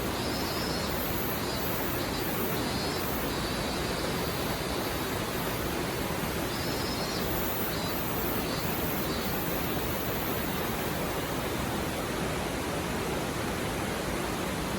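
Shallow river stream babbling steadily, an even rush of flowing water.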